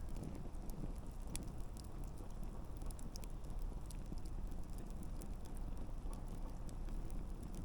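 Wood campfire crackling: scattered sharp pops and snaps from the burning logs over a steady low rush of the flames.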